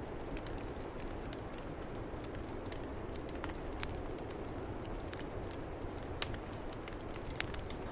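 Wood fire crackling in a fireplace, with frequent irregular sharp pops, over a steady rushing snowstorm wind.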